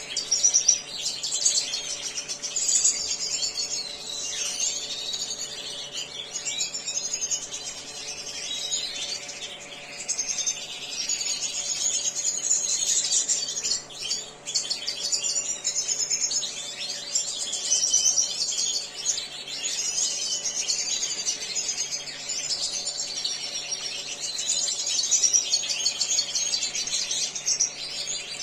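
European goldfinches of the large 'major' race twittering and singing without a break, a dense jingling chatter, over a faint steady hum.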